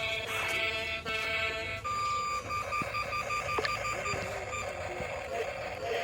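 Rapid electronic beeping, a string of short, evenly spaced high beeps starting about two seconds in, after a brief electronic tune.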